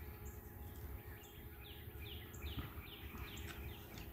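Birds chirping: a run of short chirps that each slide downward, about two to three a second, with an occasional higher note, over a low rumble.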